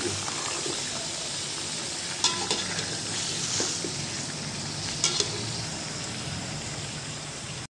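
Raw chicken pieces sizzling as they fry with onions in a metal pot, stirred with a metal spoon that clinks and scrapes against the pot about two and five seconds in. The sizzle cuts off suddenly near the end.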